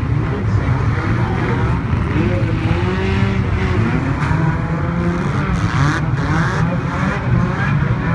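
Several banger-racing car engines revving up and down at once, their pitches rising and falling over one another without let-up.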